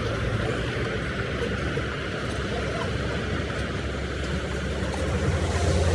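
Busy road traffic: vehicle engines running steadily, with a low engine hum growing louder near the end as a vehicle draws closer.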